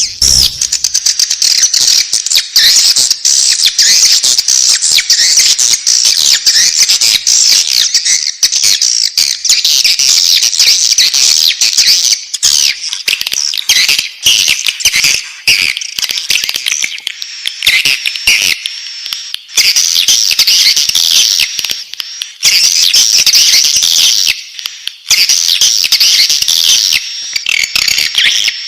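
Swiftlet chicks chirping in the nest: a loud, dense, unbroken chorus of high, rapid twittering calls, with a few short lulls.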